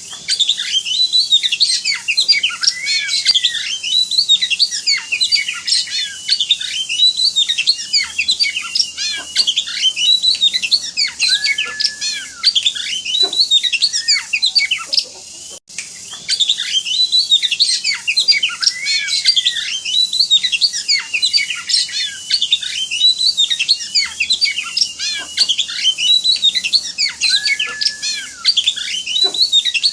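Oriental magpie-robin (kacer) singing in high spirits, a rapid, unbroken run of varied whistled notes: a masteran song recording of the kind played to train captive songbirds. A brief dropout comes about halfway through, after which the same song passage repeats.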